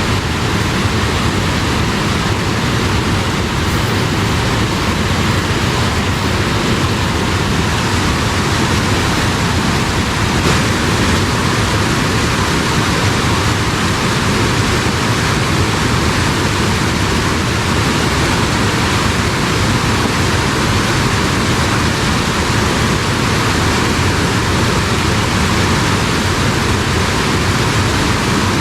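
Strong, fast-flowing stream water rushing steadily.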